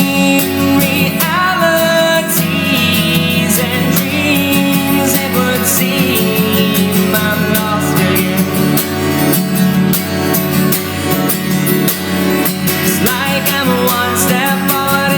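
Live acoustic music: a strummed acoustic guitar keeps a steady rhythm under a melody line that bends in pitch, in a country or bluegrass style.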